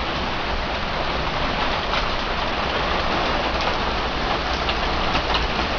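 Steady rain falling hard, a dense even hiss with now and then a sharper drop landing close by.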